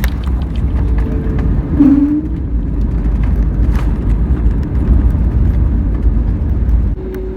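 Road vehicle running: a steady low rumble with a brief tone about two seconds in.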